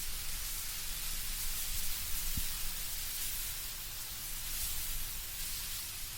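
Wind blowing through autumn trees with leaves rustling overhead, a steady soft hiss.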